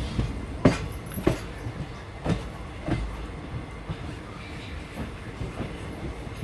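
Train running on the rails: a steady rumble with sharp clicks of the wheels passing over rail joints. There are four strong clicks in the first three seconds and fainter ones after.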